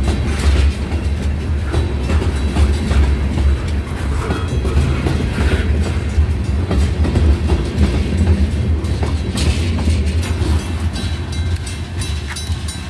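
Loaded freight train's covered hopper cars rolling past at close range: a steady low rumble with wheels clicking over the rail joints. Near the end, as the last car goes by, the rapid regular ringing of a grade-crossing bell comes through.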